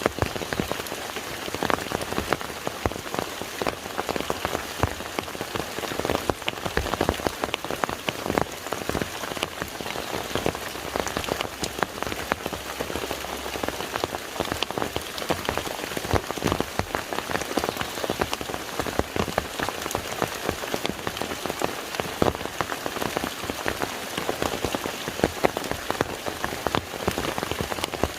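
Steady rain falling on a lake, a dense patter of many individual drops striking the water.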